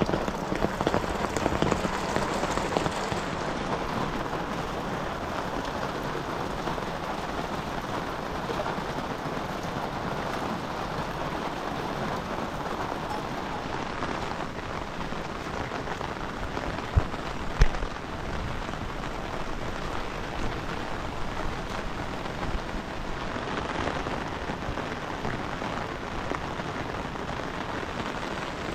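Heavy rain falling steadily, with two brief sharp knocks about two-thirds of the way through.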